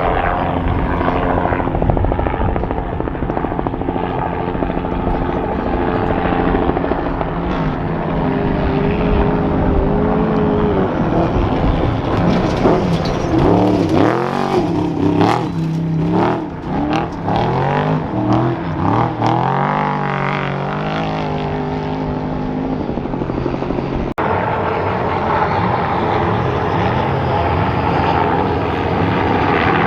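Trophy truck race engines running hard as the trucks race past, the pitch climbing and dropping through revs and gear changes. The sound changes abruptly about two-thirds of the way in, where the footage cuts.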